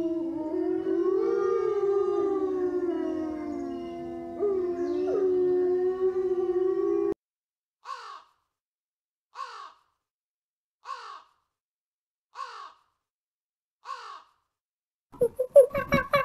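Gray wolves howling, several long gliding howls overlapping, ending about seven seconds in. Then a crow caws five times, about a second and a half apart. Near the end, monkeys start up with rapid chattering calls.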